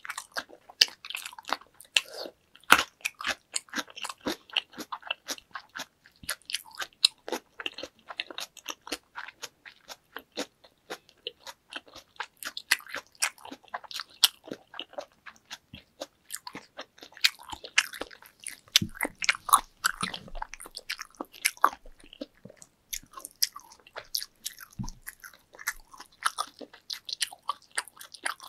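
Close-miked chewing of soft salmon sushi: wet mouth sounds and smacks, a dense, irregular run of small clicks several times a second.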